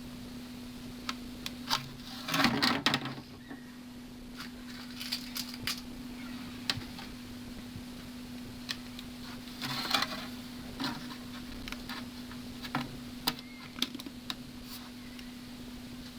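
Hot-staple plastic repair tool setting staples into a cracked plastic fairing panel: scattered sharp clicks and two short noisy bursts, about two seconds in and about ten seconds in, over a steady low hum.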